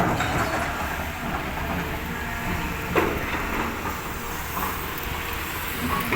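Heavy tracked earthmoving machine's diesel engine running steadily, with a sharp knock about halfway through.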